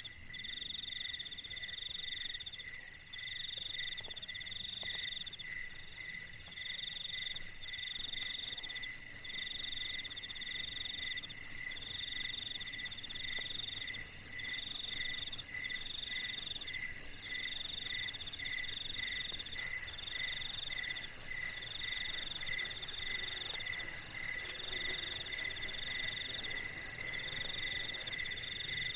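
A chorus of crickets and other insects calling steadily, several singers at once. A high continuous trill runs over a mid-pitched call that repeats in segments about a second long with short breaks, and a lower call pulses a little faster than once a second.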